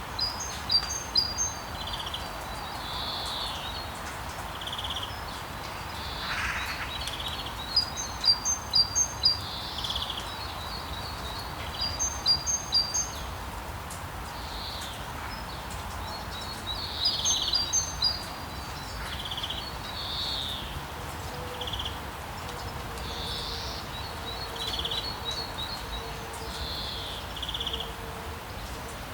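Steady rain hiss under songbirds chirping, the birds repeating short bursts of quick high notes several times over.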